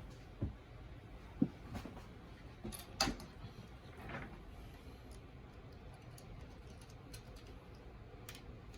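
Snap-fit plastic model kit parts being handled and pressed together: scattered light clicks and taps, most of them in the first half, the loudest a few seconds in.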